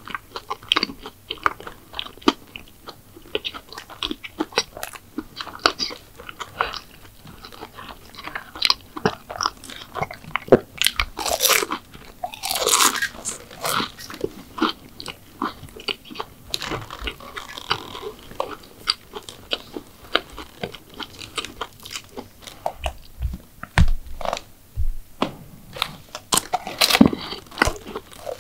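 Close-miked eating of McDonald's sweets: irregular biting, crunching and chewing with many small crackles, loudest around eleven to thirteen seconds in.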